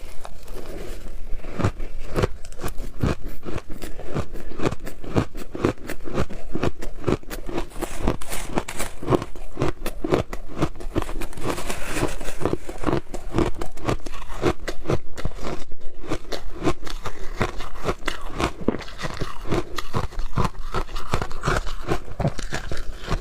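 Frozen shaved ice being bitten and chewed close to the microphone: a dense run of crisp crunches, several a second.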